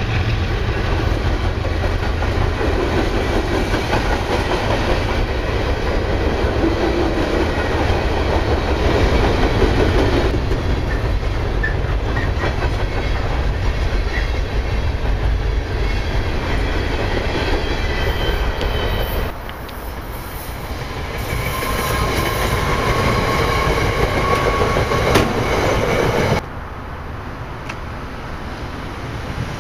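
Long freight train of container-laden flatcars rolling past close by, steel wheels on the rails making a steady loud running noise for most of the time. About three seconds before the end the sound drops and changes to a quieter SEPTA Silverliner electric commuter train approaching.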